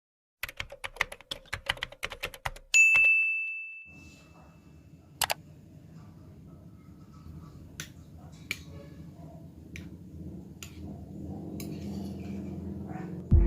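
A quick run of sharp clicks like typing, then a single bright ding that rings out and fades over about a second, followed by a low steady hum with a few scattered clicks.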